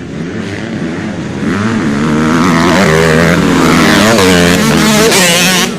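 Motorcycle engines revving up and down as racing bikes draw near, growing much louder about a second and a half in.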